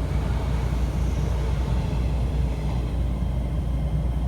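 Inside a moving commuter train: a steady low rumble of the running train.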